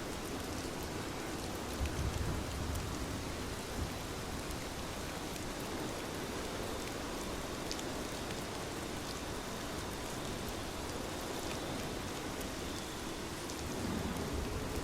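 Steady rain falling, an even hiss with scattered drop ticks. There is a brief low rumble about two seconds in, and the sound swells slightly near the end.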